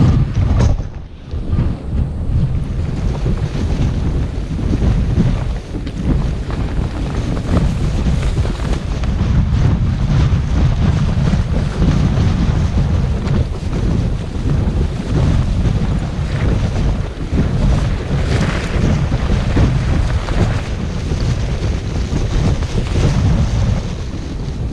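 Gale-force wind buffeting a tent and blowing across the microphone, low and loud, rising and falling in gusts.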